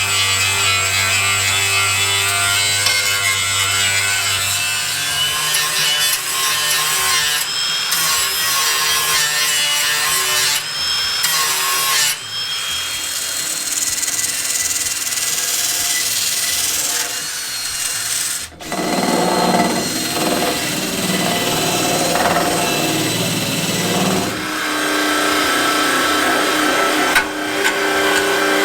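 Power tools working sheet steel on a car's rusted sill repair, a steady run of machine noise that changes character abruptly several times.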